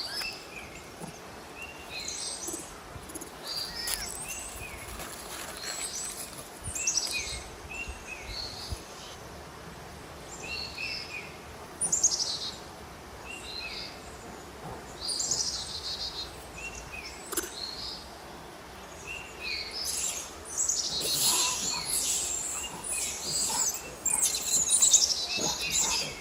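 Birds chirping and calling outdoors: many short, high calls repeated throughout, growing busier and louder in the last few seconds.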